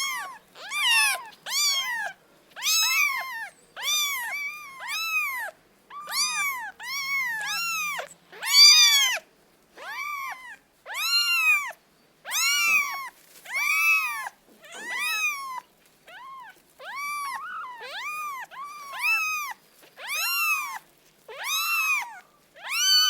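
A cat meowing over and over, one high-pitched call about every second. Each meow rises and then falls in pitch, and a few come in quick pairs.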